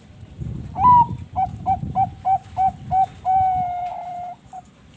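Perkutut bangkok (Thai-bred zebra dove) cooing: a higher opening note, then a run of about six short evenly spaced notes, one long held note and a short final note.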